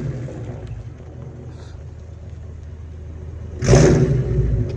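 Straight-piped Lexus 5.0-litre V8 settling into a low idle, then blipped hard about three and a half seconds in: a sudden loud rev that falls back within a second.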